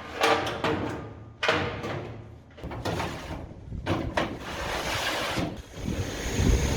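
A few door-like clunks and scraping handling noises. A vehicle engine starts running with a low rumble near the end.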